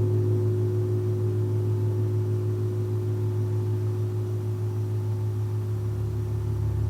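Large gong sounding a low sustained hum with overtones, slowly fading, then swelling again near the end as it is played once more.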